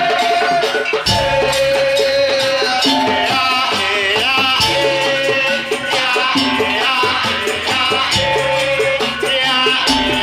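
Madurese daul (tong-tong) music played by a percussion ensemble: a dense, steady beat with rattling shakers and drums under a bending melodic lead line.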